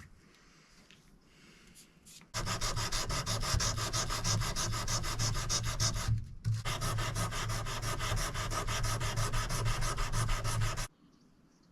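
Sanding on a steel Damascus knife blade: a rapid, even scraping with a steady low hum under it. It starts a couple of seconds in, pauses briefly in the middle and stops near the end.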